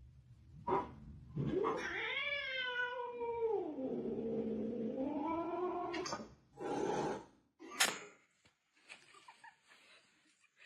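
Domestic cat yowling: one long drawn-out call that rises and then slides down in pitch, followed by a shorter call and a sharp click.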